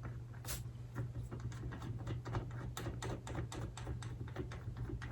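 Light, irregular clicking, several clicks a second, as a hand ratchet runs the fork damper screw into the bottom of the fork tube, over a steady low hum.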